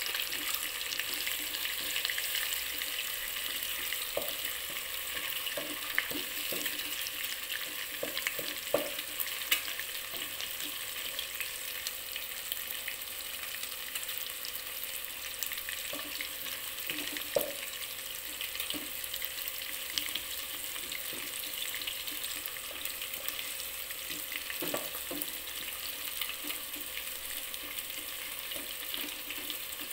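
An egg and shrimp frying in hot oil in a granite-coated nonstick pot, sizzling steadily, with now and then the short knock and scrape of a plastic spatula against the pot as the egg is broken up and scrambled.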